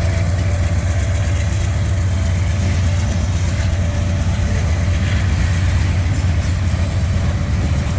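Union Pacific freight train rolling slowly past a grade crossing: a steady, loud low rumble with no break.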